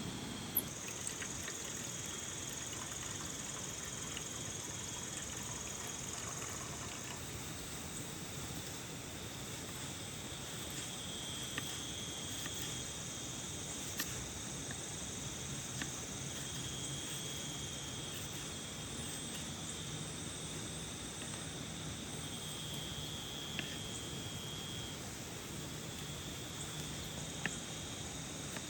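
Steady hiss of rain with insects trilling on top in long, high, steady stretches that come and go, and a few sharp single ticks of drops scattered through.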